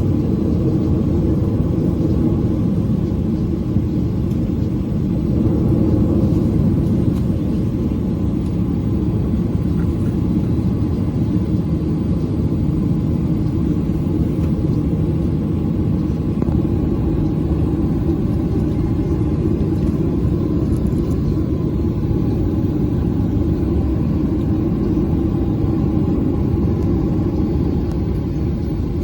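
Steady low rumble of a Boeing 737's engines and airframe heard inside the passenger cabin.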